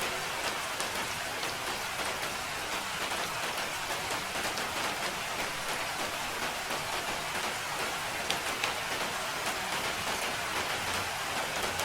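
Steady rain falling on a surface, a dense even patter with many small drop ticks.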